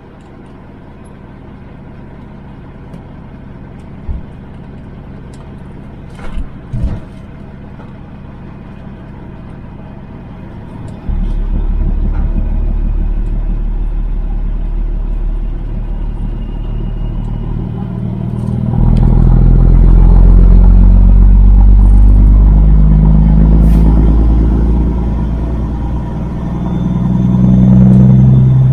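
Kenworth W900 semi truck's diesel engine idling, with a few short knocks early on. It then pulls away and works up through the gears, getting louder about a third of the way in and louder again past halfway, its engine note stepping with each shift.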